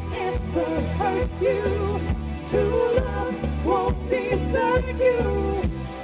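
Live pop band playing a song, with a steady bass line, regular drum hits and a bending melodic lead line over them.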